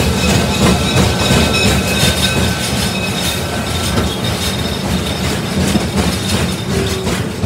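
Train cars rolling along the track, a steady rumble and clatter of wheels on rail with a thin, steady high wheel squeal.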